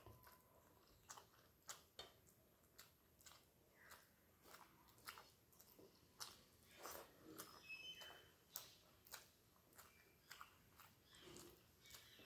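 Quiet close-up chewing of a mouthful of rice eaten by hand, with soft wet mouth smacks and clicks about twice a second.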